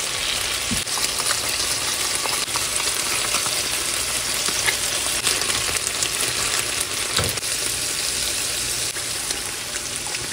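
Garlic scapes sizzling steadily as they are stir-fried in butter in a pan, with the stirring utensil scraping and tapping the pan now and then.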